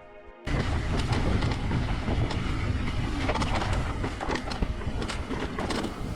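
Mountain bike running fast down a dirt trail: steady rumble of tyres and wind on the microphone, with sharp rattles and clacks as the bike goes over bumps. It cuts in suddenly about half a second in, after a faint tail of music.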